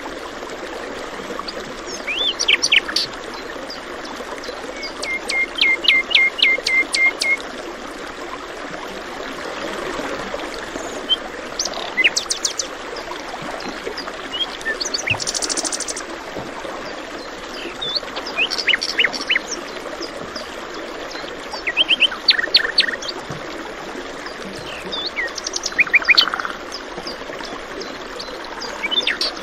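Songbirds chirping in short clusters of quick notes every few seconds, one a run of about eight evenly spaced notes, over the steady rush of running water.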